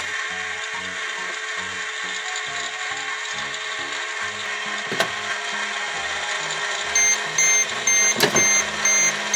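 Toy microwave running with a steady whirring hum. From about seven seconds in it gives a run of short beeps, about two a second, then one longer beep as the cycle ends.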